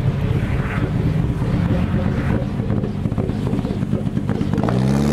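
Ford Escort rally car engines running rough and lumpy at low revs close by. Near the end one engine's revs rise in a climbing note.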